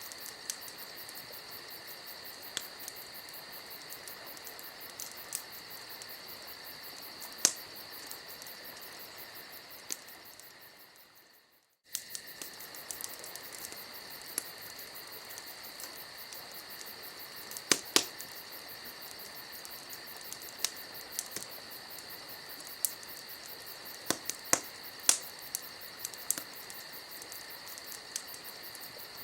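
Campfire ambience: steady cricket chirping under scattered sharp crackling pops from the burning wood. It fades out about ten seconds in, is briefly near silent, then starts again abruptly a moment later.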